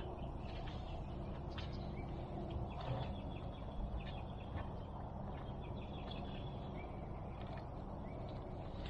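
Faint bird calls over a steady low hum, with a few soft knocks.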